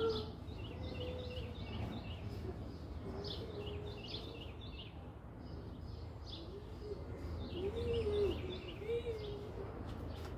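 Songbirds singing outdoors: phrases of short, high, repeated chirps coming and going, over a steady low background rumble. A few faint, low, wavering tones sound about two thirds of the way through.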